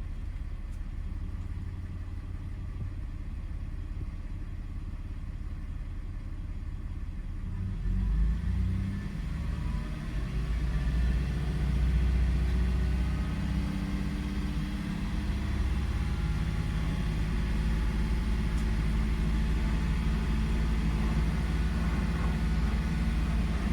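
2002 Toyota 4Runner engine running steadily. About eight seconds in it gets louder and fuller and stays that way. It keeps running without stalling, the condition the mechanic traces to an erratic MAF sensor.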